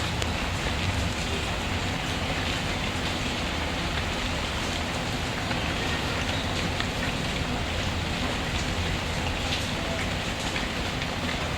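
Steady rainfall, a dense even hiss, with a few faint scattered crackles from a wood fire.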